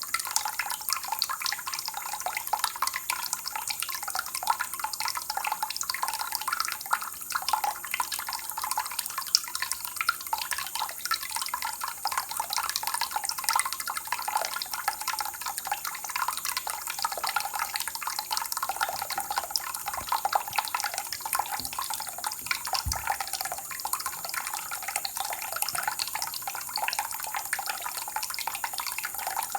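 Water trickling and dripping: a steady, dense patter of small splashes and plops.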